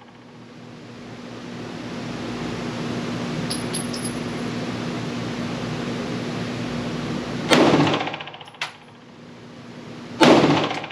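Two 9mm pistol shots from a PSA Dagger compact, about two and a half seconds apart near the end, each ringing briefly in the indoor range. A smaller sharp click falls between them. Before the shots there is a steady hiss of range noise.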